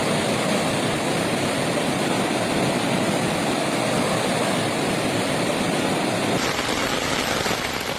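Steady rush of fast-flowing floodwater, with a slight change in the sound about six and a half seconds in.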